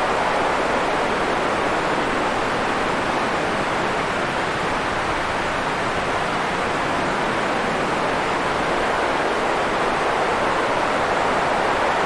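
White noise: a steady, even hiss centred in the middle range, swelling and easing slightly in slow waves.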